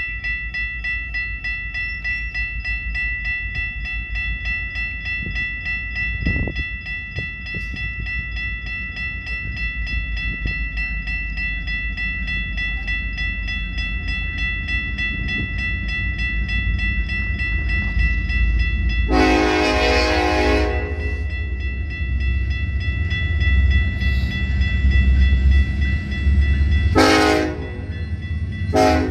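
Union Pacific EMD SD70ACe diesel locomotive approaching on its train: a low engine and rail rumble that grows louder, with a long horn blast about two-thirds of the way in and a shorter blast near the end.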